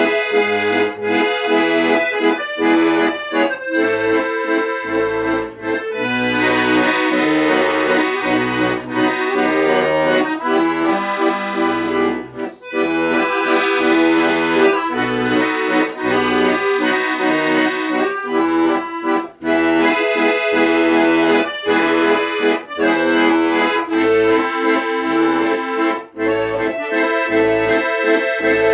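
Accordion playing an instrumental chanson-style melody over a steady rhythmic bass accompaniment.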